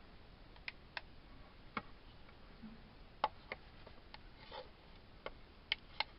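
Light, irregular clicks and taps, about ten of them, with the sharpest a little past the middle.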